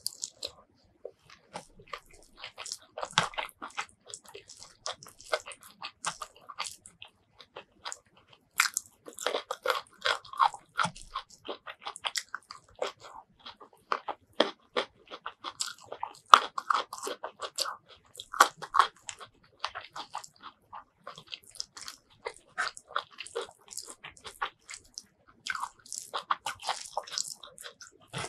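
Close-miked eating sounds of a person chewing rice with spicy tomato fish-paste curry: continuous wet chewing and smacking with many sharp crunches and clicks.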